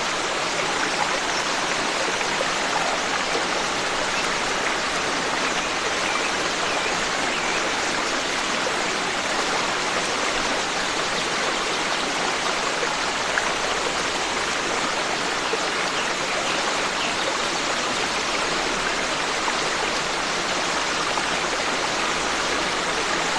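Forest stream running steadily: an even, unbroken rush of flowing water.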